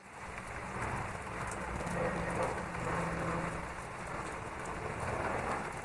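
Steady rain falling, a continuous even hiss of drops, with a faint low hum for a while in the middle.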